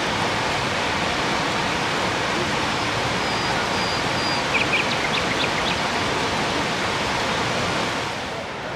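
Steady rushing of the Dzhuryn waterfall, falling water making an even, dense noise that eases slightly near the end.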